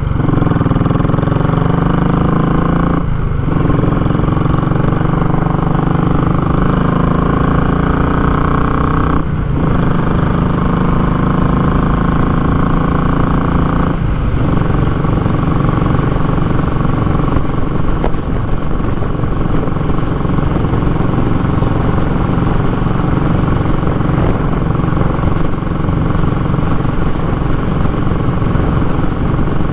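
Royal Enfield Classic 500's single-cylinder engine through a short open muffler, giving a raw exhaust note while riding. The pitch climbs under acceleration and breaks off briefly three times, as the rider shifts up, then settles into a steady cruise.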